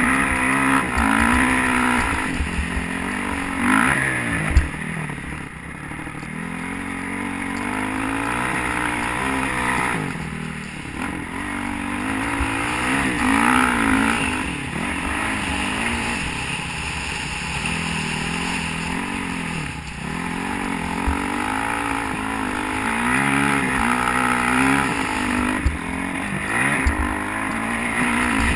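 Honda CRF450 single-cylinder four-stroke dirt bike engine revving hard and backing off again and again as the rider accelerates through the gears around a motocross track, heard close from an on-bike camera.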